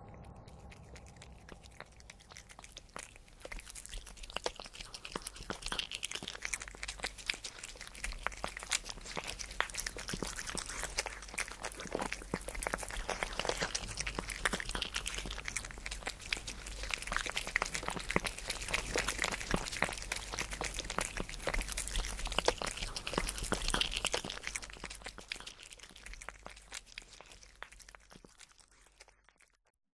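Dense crackling and crunching, many small clicks close together, building up over the first few seconds and fading away near the end.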